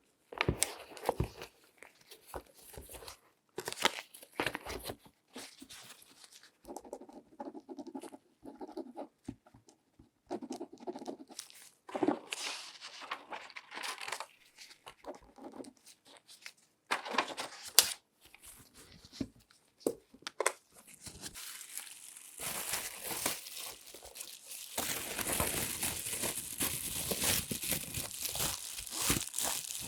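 Latex-gloved hands handling objects: a run of separate taps, clicks and scratches, then a continuous crinkling from about three-quarters of the way in.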